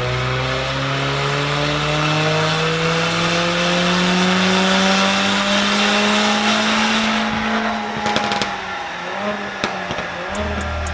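Mercedes-AMG A45's turbocharged 2.0-litre four-cylinder through an Armytrix valved exhaust, revs climbing steadily for about seven seconds under acceleration. The revs then drop off with a short run of crackles and pops from the exhaust, about eight seconds in.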